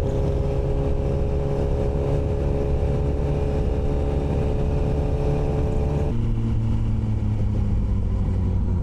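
Motorcycle engine idling steadily with a low rumble and no revving. The sound changes abruptly about six seconds in.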